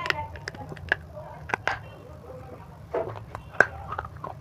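Close-miked biting and chewing of a crunchy white chalky chunk: a string of sharp crunches and crackles, with the loudest snap about three and a half seconds in.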